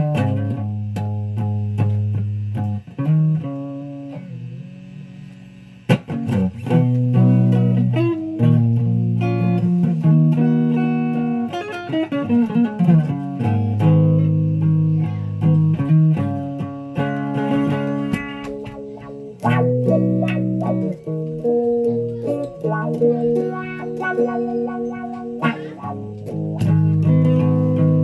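A guitar played in the low register: single plucked notes and chords, held and changed every second or so. One note rings out and fades for a few seconds before a sharp pluck starts the playing again.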